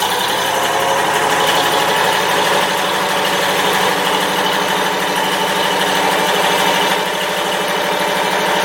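Engine of a classic military truck idling steadily, with an even, fast pulsing beat.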